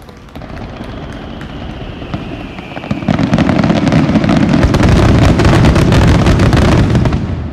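Climax barrage of aerial fireworks: a thin high whistle at first, then about three seconds in a dense run of rapid crackling and booming from many shells bursting at once, which drops off near the end.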